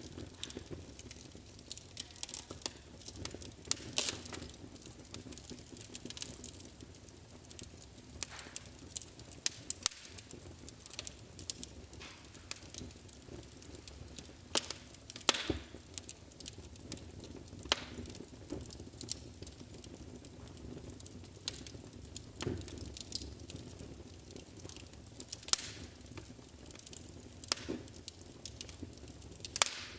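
Wood fire burning in a fireplace: a low steady hiss with irregular sharp crackles and pops, a few of them louder snaps.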